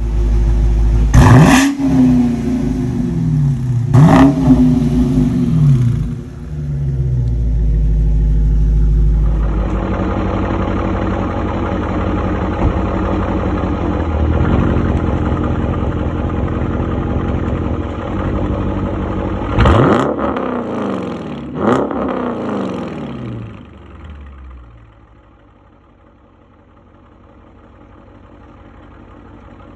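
Dodge Challenger R/T's 5.7L HEMI V8 exhaust being revved: two quick throttle blips, a long stretch held at higher revs, two more blips, then settling to a quieter idle.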